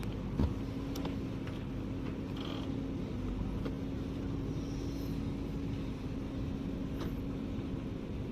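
Heavy vehicle engine running steadily at low speed with an even hum, and a single sharp knock about half a second in.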